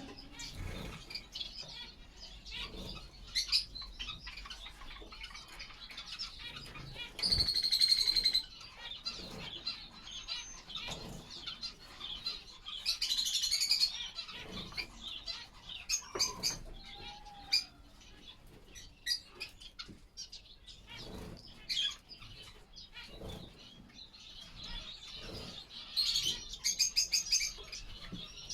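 Small estrildid finches bathing in water: several short bursts of splashing and wing fluttering, with soft chirps and calls between them.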